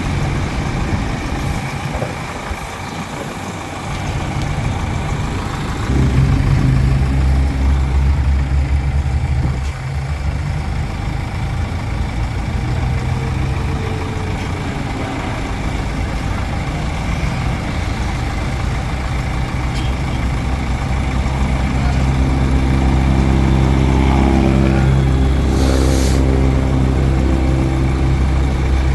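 Heavy diesel engine of earth-moving machinery running, working harder from about six seconds in and rising again later, with a short hiss near the end.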